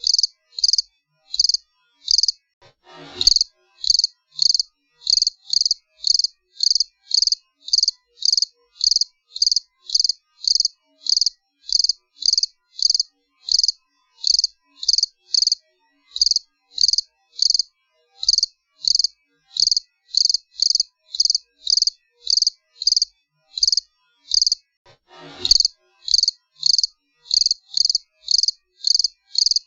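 Cricket chirping steadily, short high-pitched chirps at about three a second. A brief falling swoosh cuts in twice, about three seconds in and again about 25 seconds in.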